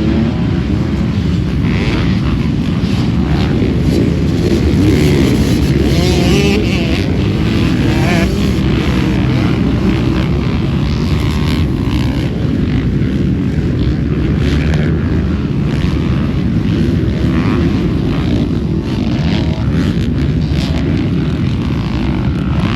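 Motocross dirt bike engines racing on a track, revs repeatedly climbing and dropping over a heavy low rumble.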